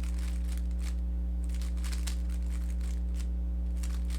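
Rubik's cube being turned by hand: irregular plastic clicks and clatter of its layers as an algorithm is worked through, over a steady electrical hum.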